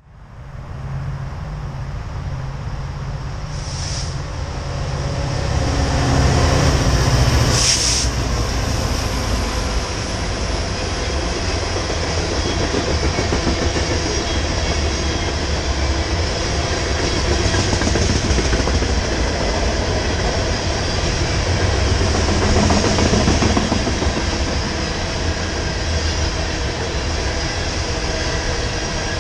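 Loaded coal hopper cars of a freight train rolling past: a continuous rumble of steel wheels on the rails, with two brief high squeals about four and eight seconds in.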